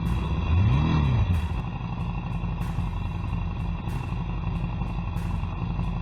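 Motorcycle engine revving up and back down once about a second in, then running steadily.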